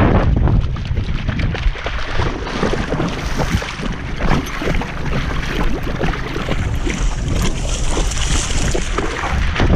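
A pitbull splashing and wading in a river, heard close up through a camera strapped to the dog. The water noise is loud and churning, with many sharp knocks and rubbing noises from the camera mount.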